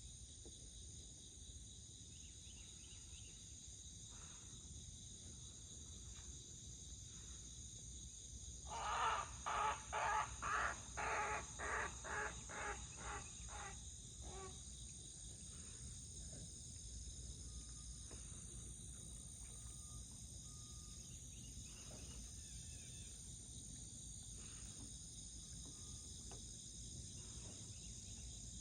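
Steady high drone of cicadas. About nine seconds in, a crane gives a loud run of about a dozen piercing calls, roughly two a second, fading out over some five seconds.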